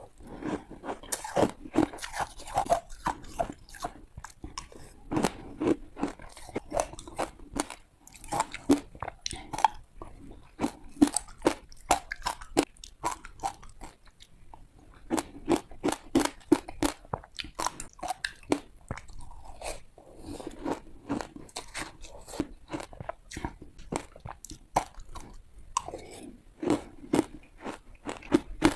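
Ice being bitten and chewed close to the microphone: quick runs of sharp crunches and cracks, bite after bite, with short breaks between them.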